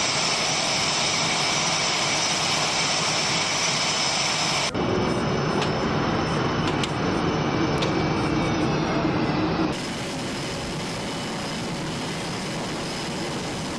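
Jet engine noise: a steady, loud rush with a high whine on top. It changes abruptly twice, about 5 and 10 seconds in, and the whine drops slightly in pitch just before the second change.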